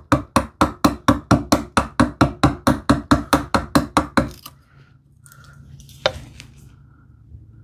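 A chisel driven with rapid, light mallet taps, about five a second, chopping out a groove in wood. The taps stop about four and a half seconds in, with one more strike about a second and a half later.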